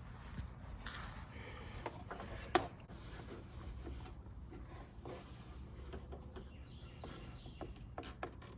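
Scattered light clicks and knocks, the sharpest about two and a half seconds in and a short cluster near the end, over a low steady hum.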